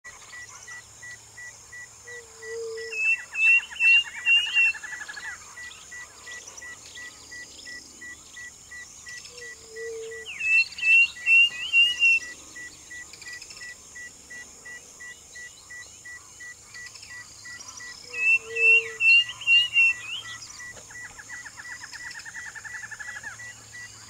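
A perched bird singing in three bouts about seven seconds apart. Each bout is a low note followed by a quick run of four or five sharp, high notes. A steady high insect-like drone and a fast, even ticking run underneath.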